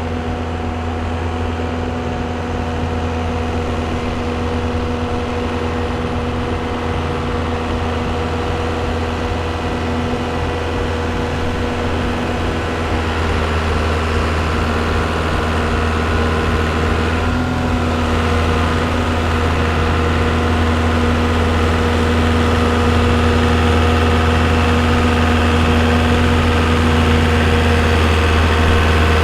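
John Deere 2130 diesel tractor engine running at a steady, even speed, slowly growing louder.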